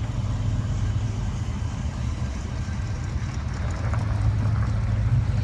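A car engine idling, its exhaust note low and steady, swelling slightly near the end.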